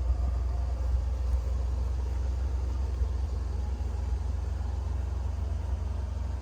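1986 Pontiac Firebird Trans Am's V8 engine running with a steady low rumble.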